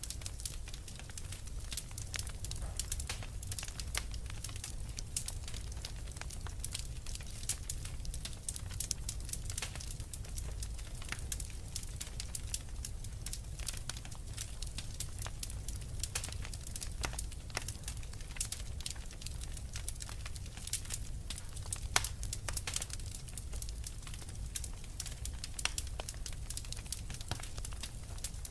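Wood fire in a fireplace crackling steadily, with frequent sharp pops and snaps over a low rumble; one louder pop about 22 seconds in.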